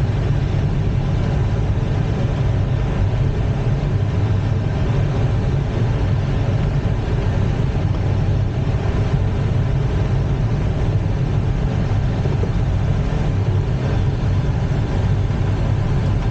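Steady rushing airflow noise in the cockpit of an ASK-21 glider in flight, a low, even rumble with no changes.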